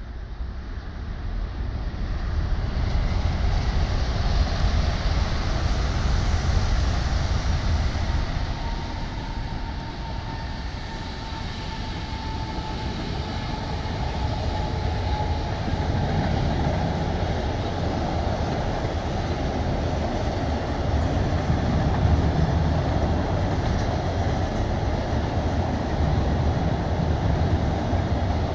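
Freight train hauled by a JR Freight EF210 electric locomotive, pulling container wagons across a steel truss railway bridge: a steady, deep rumble of wheels on the bridge, building up over the first couple of seconds and then holding. A faint high whine rides over it in the middle.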